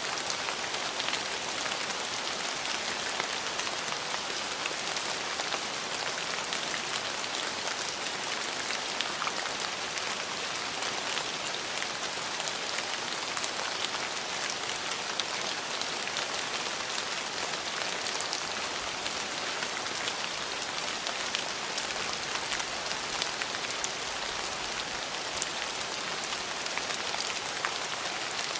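Steady rain falling on hard surfaces: an even hiss with scattered drop ticks.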